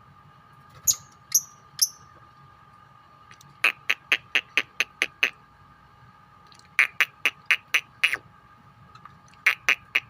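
Lovebirds calling: three sharp, shrill chirps, then three runs of rapid repeated chattering notes, about five a second. This is the lovebird's 'ngekek' chatter.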